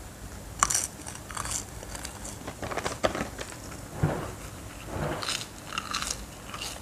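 Crispy fried seaweed sheet crunching as it is bitten and chewed: a sharp snap a little over half a second in, then irregular crackly crunches.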